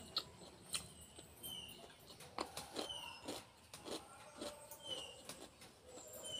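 Crunching and chewing of food, in sharp crackly bursts. Behind it a bird chirps over and over, a short high falling note about every second and a half.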